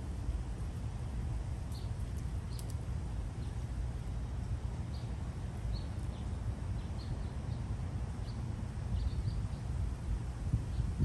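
A dozen or so faint, short, high bird chirps scattered over a steady low rumble.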